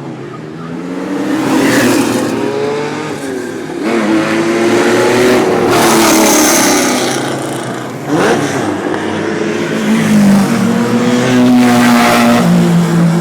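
Sports car engines revving and accelerating as the cars drive past one after another, the engine pitch rising and falling with each pass.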